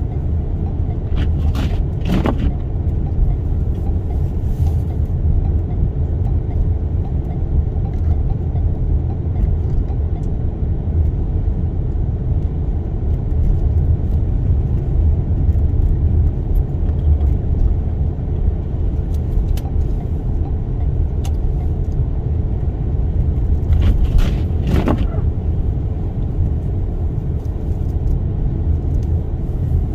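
Steady low rumble of road and engine noise inside a Toyota Sienna minivan's cabin, driving through a snowstorm, with a few short clicks about two seconds in and again near 25 seconds.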